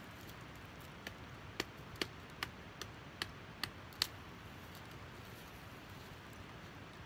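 A Cold Steel Voyager folding knife hacking at a live pine branch: about eight sharp chopping whacks in quick succession, roughly two or three a second, stopping about four seconds in. The blows land unevenly rather than in the same spot.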